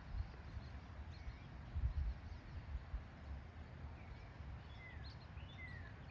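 Small birds chirping: short, quick, falling chirps, a few faint ones about a second in and a run of them over the last couple of seconds, over a low rumble.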